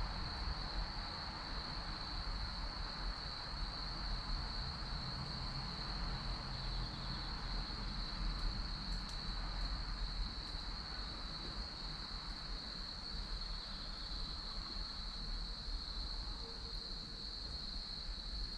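Chestnut and cherry firewood burning in a fire pit, with a few faint crackling pops around the middle, over steady chirping of crickets.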